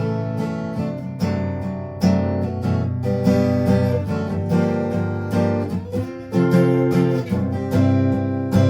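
Acoustic guitar strumming chords through an instrumental passage of a song, with no singing.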